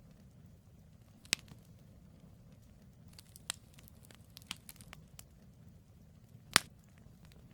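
Wood fire crackling over a low, steady rumble of burning, with scattered sharp pops from the logs: a loud one about a second in, a flurry of smaller ones mid-way, and the loudest pop near the end.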